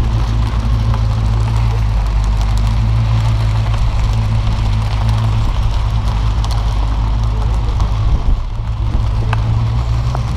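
A car engine idling steadily, with an even low hum, briefly unsettled near the end.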